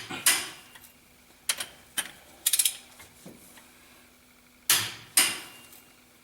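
A click-type torque wrench set to 21 kgf·m on KamAZ cylinder-head bolts, giving sharp metallic clicks as it breaks over, with lighter ratchet ticks between pulls. The loudest clicks come at the start and again about five seconds in. It clicks without the bolts turning, a sign that the head bolts are already at full torque.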